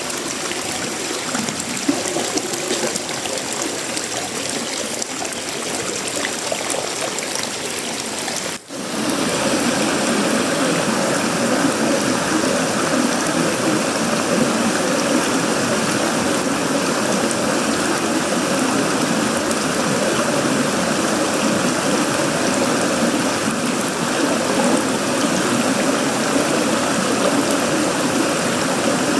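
Steady heavy tropical rain falling on sheet-metal roofing, wood and leaves. About a third of the way in the sound drops out for an instant and comes back louder and fuller.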